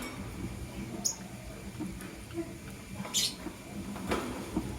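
Lovebirds giving a few short, sharp chirps and clicks: one about a second in, a louder high chirp about three seconds in, and a click near the end.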